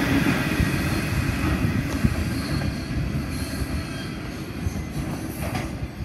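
Freight train's loaded steel-coil wagons rolling over the rails, the rumble fading steadily as the end of the train moves away, with a faint high wheel squeal about halfway through.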